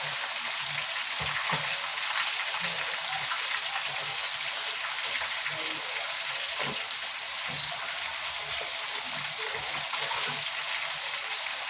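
Breaded chicken pieces deep-frying in canola oil: a steady sizzle with scattered small crackles.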